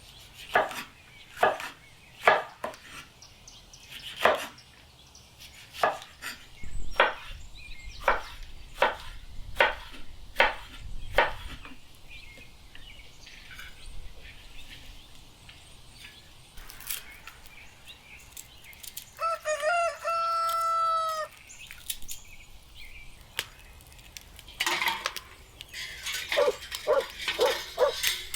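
A knife chopping on a cutting board, about one stroke a second. Later a rooster crows once, a call of about two seconds. Near the end comes a quicker run of chopping strokes.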